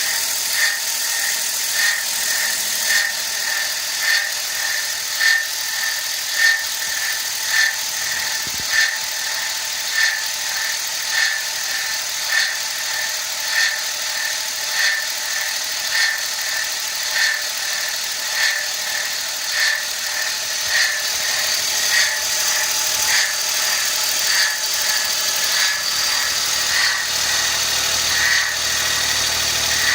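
Suzuki Wagon R MH21S engine running, with a short high-pitched chirp repeating regularly, about every two-thirds of a second. The chirp keeps its own rhythm whatever the engine speed. It started after the engine let out an animal-like shriek while driving, and its cause is unknown.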